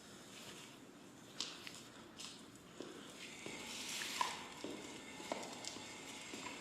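Footsteps on a hard floor, a sharp step about every half to two-thirds of a second, with a rushing hiss that swells in the middle.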